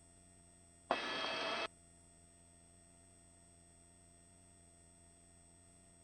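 Helicopter headset intercom feed, mostly a faint steady hum with thin steady tones. About a second in, a microphone opens for under a second, a sudden loud burst that cuts off as sharply as it began.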